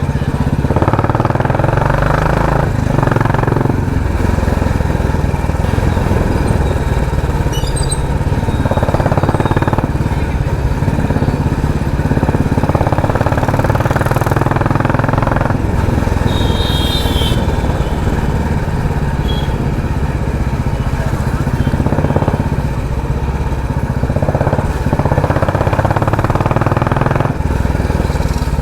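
Royal Enfield Classic 350's single-cylinder engine running through a loud aftermarket 'helicopter' exhaust while riding. The exhaust note swells with the throttle a few times.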